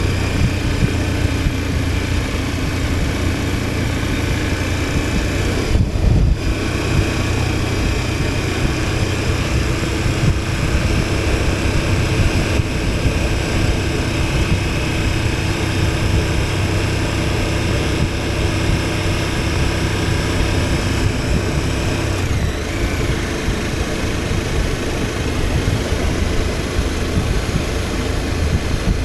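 KTM 1290 Super Adventure S's V-twin engine running steadily under way, heard from the bike with rushing wind noise. About six seconds in, the sound briefly dips and changes, then steadies again.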